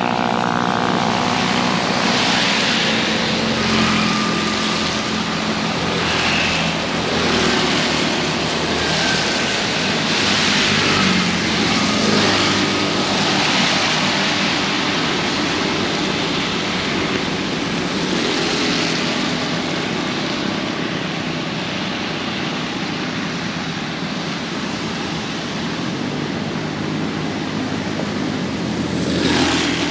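Heavy rain pouring steadily, with motor vehicles passing through it; an engine hum is heard at the start.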